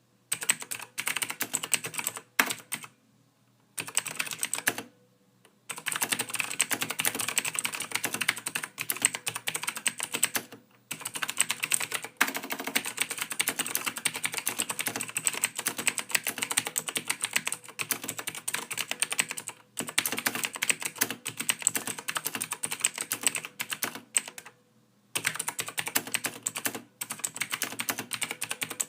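Typing on a computer keyboard: fast, continuous runs of key clicks, broken by a few pauses of up to a second or so.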